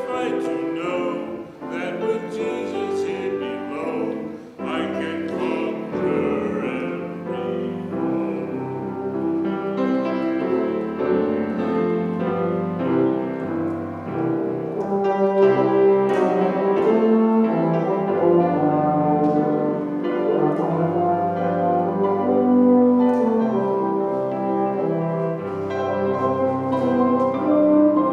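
Instrumental church music: piano with sustained, held chords over long low bass notes.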